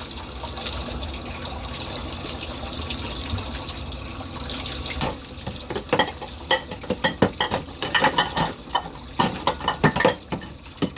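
Water running from a kitchen tap for about five seconds, then dishes and cutlery clinking and knocking as they are set into a countertop dishwasher's racks.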